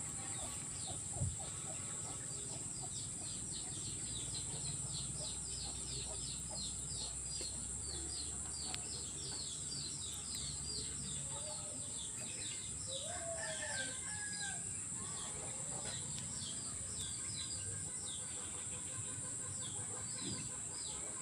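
Swamp-edge wildlife ambience: a steady high drone of insects, with many quick repeated bird chirps over it. A few lower, fowl-like calls come near the middle, and there is a single sharp click about a second in.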